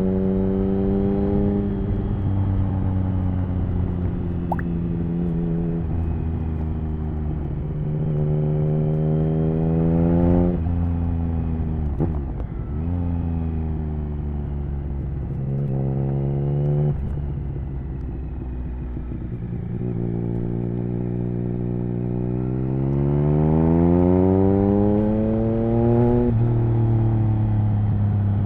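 Triumph Speed Triple 1050's inline three-cylinder engine through an HP Corse Hydroform exhaust, under way through the gears: the pitch climbs with the revs and drops abruptly at each gear change. A long pull near the end rises higher before the next shift.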